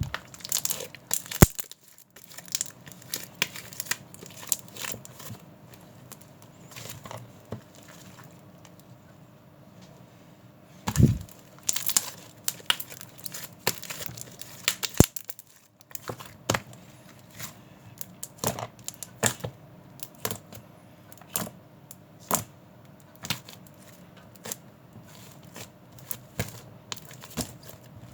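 Irregular sharp clicks and crinkling, like something being handled, with a louder cluster about eleven seconds in.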